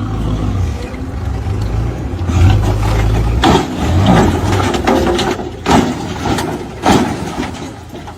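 A low rumble like a running engine, weakening after a few seconds, then four heavy thumps roughly a second apart.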